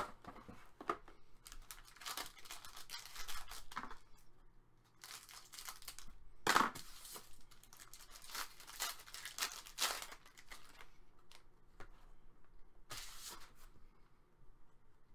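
Hockey card pack wrappers being torn open and crinkled by hand, in several irregular bursts of tearing and rustling.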